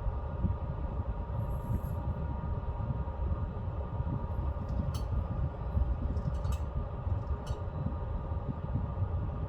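Pellet stove running: a steady low rumble of the fire with the even hum of its fans, and a few light ticks from about halfway through.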